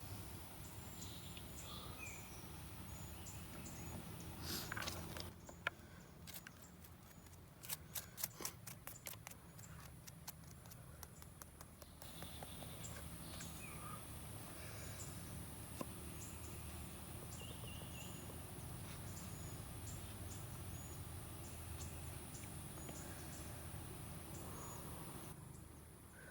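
Small birds chirping in the background over a faint outdoor hush, with a rustle about four seconds in and a quick run of sharp clicks about eight seconds in.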